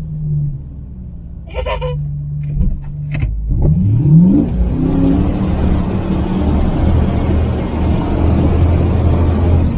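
Off-road Jeep engine running, revving up with a rising pitch about three and a half seconds in, then held at high revs to the end.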